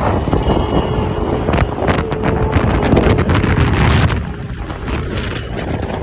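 Yamaha Aerox 155 scooter being ridden, its engine running under heavy wind noise on the microphone; the wind buffeting eases about four seconds in.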